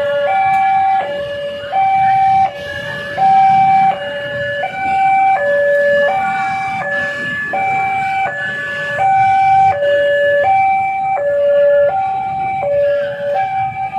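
Railway level-crossing warning alarm sounding an electronic two-tone hi-lo signal, alternating evenly between a low and a high note about every three-quarters of a second: the crossing is closed for an approaching train. Road traffic runs underneath.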